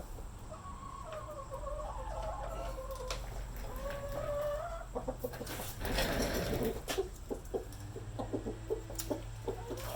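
Chickens clucking: drawn-out wavering calls in the first half, then a run of short, quick clucks near the end, with a brief rustling clatter in between.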